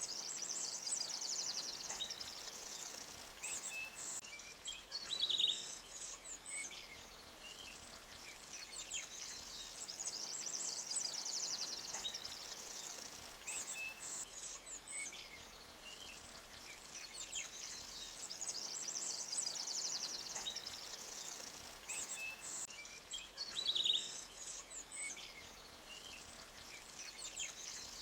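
Forest ambience of birds chirping and a high, fast insect-like trill that swells and fades, over a faint steady background hiss. The same sequence of calls repeats about every 18 seconds, like a loop, with a sharp chirp standing out each time.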